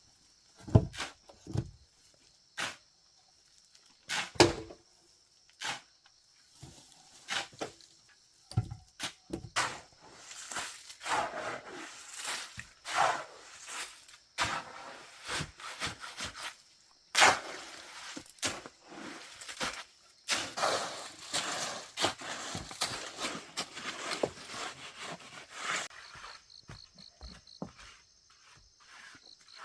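Irregular knocks, thuds and scraping from hands-on work, densest in the middle stretch, with a steady high-pitched hum heard near the start and again near the end.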